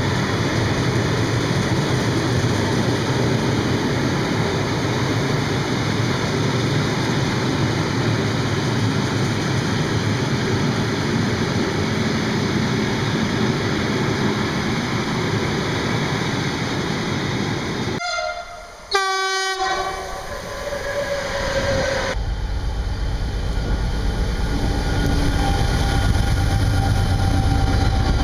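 Freight train passing, its wagons rumbling over the rails in a steady, loud din. About two-thirds of the way through the sound cuts out briefly, and a train horn blows with a falling pitch. After that a low locomotive engine rumble builds.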